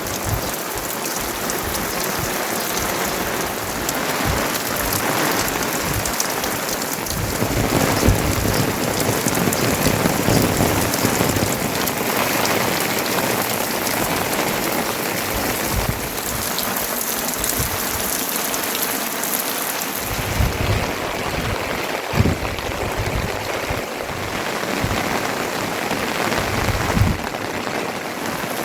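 Heavy rain falling steadily, a dense even hiss of rain on surfaces. A few brief low thumps break through, about 8 s, 22 s and 27 s in.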